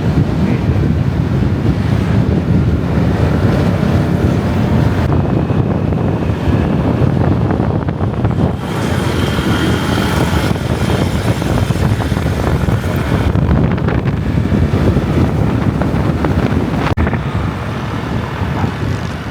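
Heavy wind buffeting on the microphone of a moving motorbike, a loud, steady rumble with road and vehicle noise underneath.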